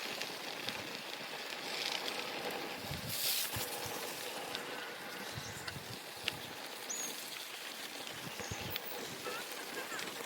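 Outdoor ambience with wind buffeting the microphone in gusts, scattered small clicks and handling knocks, and a few faint short bird chirps.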